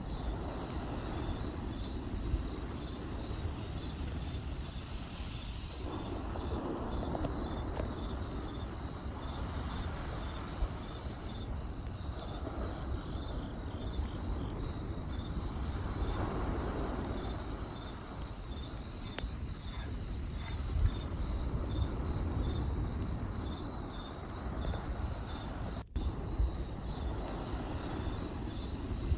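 Campfire crackling with scattered small pops, over a steady, high, pulsing cricket trill and a low rumble.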